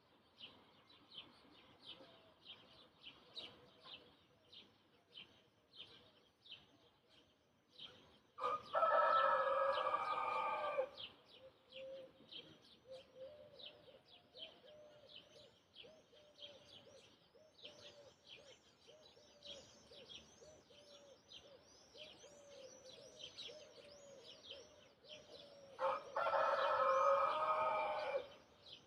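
A rooster crows twice, each crow about two and a half seconds long and the loudest sound, the second some seventeen seconds after the first. Small birds chirp continuously in the background.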